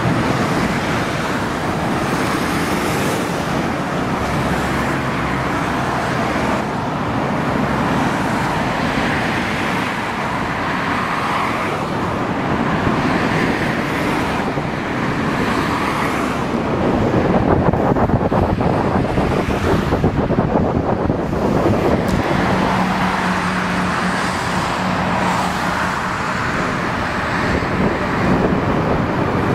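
Steady rumble of trains crossing steel arch railway bridges, mixed with road traffic noise and wind on the microphone. A steady low hum comes in about two-thirds of the way through.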